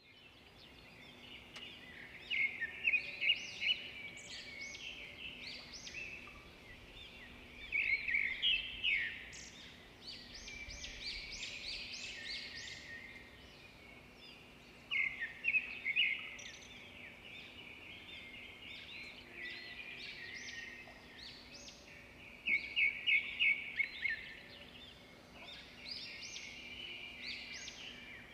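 Birds singing: bursts of high chirps and quick trills, with louder phrases about every seven seconds, over a faint steady hum.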